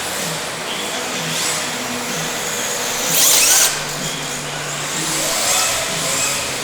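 Electric motors of rear-wheel-drive RC drift cars whining, their pitch rising and falling as the cars are throttled through drifts on tile. A loud hiss about three seconds in, lasting about half a second.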